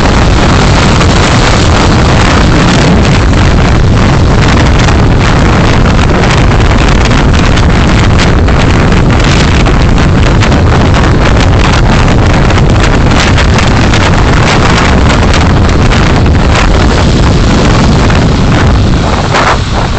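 Loud wind and road noise from a moving car, picked up by a dashcam microphone and crackling with distortion. It eases about a second before the end.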